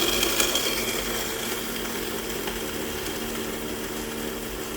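The built-in coffee grinder of a Black & Decker Mill and Brew coffee maker running steadily, grinding beans at the start of a brew cycle on the strong setting. It is a little louder in the first second, then level.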